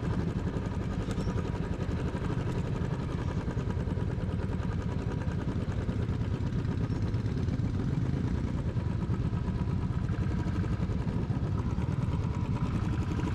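Motorcycle engine running steadily at low speed as the bike pulls up a steep, rough dirt track.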